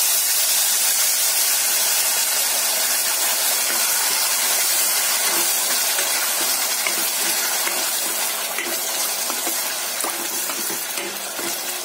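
Wet onion, tomato and cashew paste sizzling loudly as it hits hot oil and whole spices in a stainless-steel kadhai and is stirred; the hiss eases slowly toward the end, with a few light clicks of the steel spoon.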